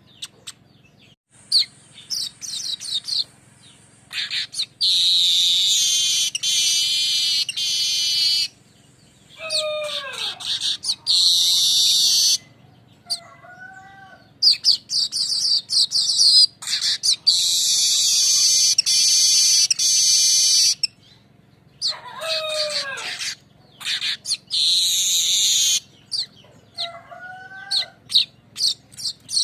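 Manyar weaver song: long bouts of rapid, rasping buzzy trills, broken by two falling whistles and two short two-note calls. The sequence repeats about halfway through, as a looped lure call does.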